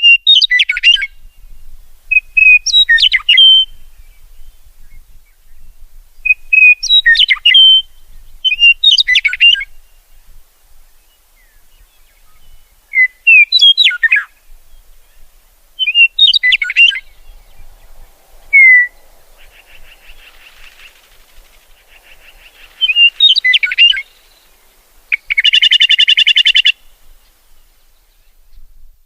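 Bird song: short phrases of quick chirping and whistled notes, repeated every two to three seconds. A harsh, buzzy call comes about 25 seconds in.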